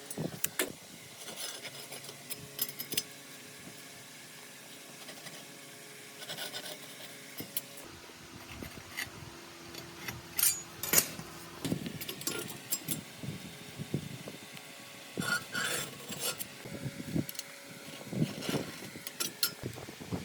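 Irregular clinks, knocks and scraping of metal parts and hand tools being handled, over a faint steady hum.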